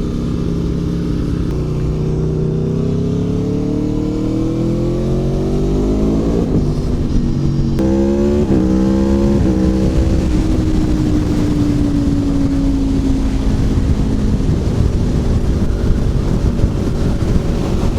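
Aprilia Tuono V4 Factory's V4 engine, with its exhaust baffle removed, pulling up through the gears: the revs climb for several seconds, drop at a gear change about six and a half seconds in, then climb again through a couple of quick shifts. After that the engine holds a steady note that slowly falls. An even rushing noise takes over in the last few seconds.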